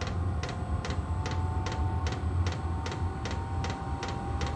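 OMT 8 kW diesel air heater running up after ignition: its fuel dosing pump ticks steadily about two and a half times a second over the low, even hum of the combustion fan, with a thin whine on top.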